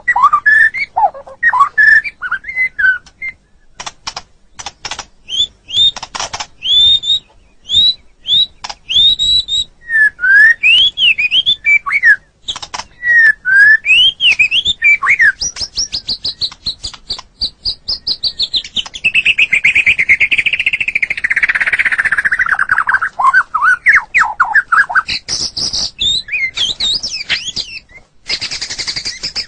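White-rumped shama (murai batu) singing a loud, varied song: clear whistled notes slurring up and down, quick repeated notes and clicks, and a long fast trill around the middle that falls in pitch.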